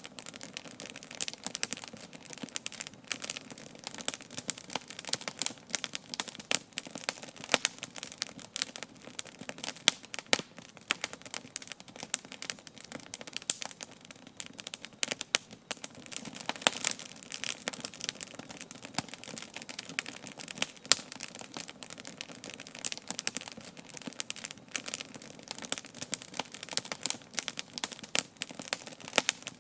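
Wood campfire burning, with dense irregular crackling and popping throughout.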